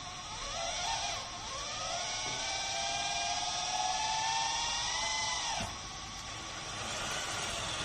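Small electric motor and gears of a 1/14-scale RC model tractor whining. The whine climbs steadily in pitch for about four seconds, then falls away and stops suddenly, leaving a steadier hum.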